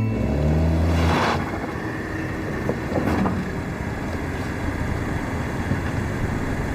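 A vehicle engine with a low hum that rises a little in the first second, then a steady rush of road or traffic noise.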